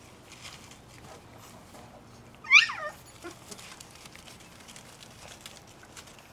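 A cocker spaniel puppy gives one short, high yelp that falls steeply in pitch, about two and a half seconds in.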